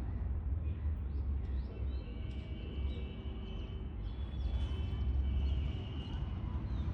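Several small birds chirping, short high calls and quick rising notes starting about two seconds in and carrying on, over a steady low rumble that is the loudest part of the sound.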